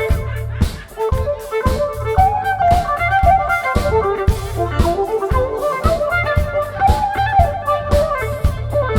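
Instrumental funk music played by a live band: a steady drum beat with bass under a sustained melodic lead line.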